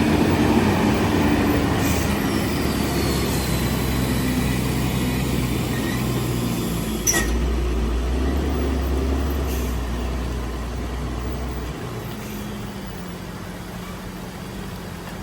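Heavy truck engines running with a low, steady drone, a thin falling whistle early on and a sharp click about halfway through; the drone eases off in the last few seconds.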